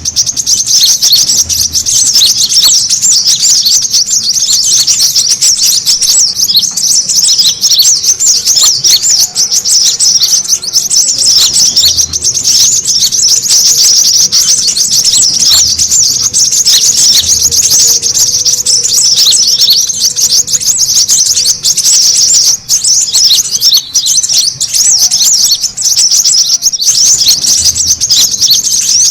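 Brown-throated sunbirds (kolibri kelapa) in busy, agitated chatter: a loud, unbroken stream of rapid high chirps and twitters, the noisy call used as a lure to draw other sunbirds in.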